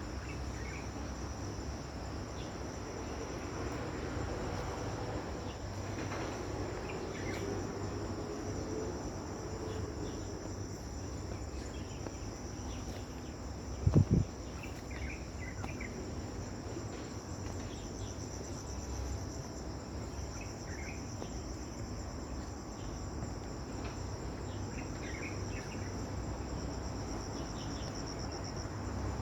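Insects, crickets or similar, trilling steadily in a high continuous chorus, with scattered short chirps above it. A single brief sharp thump about halfway through.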